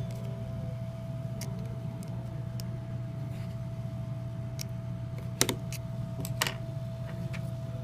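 Scattered small clicks and taps from handling a phone and its small parts during repair, the two loudest about five and a half and six and a half seconds in, over a steady electrical hum.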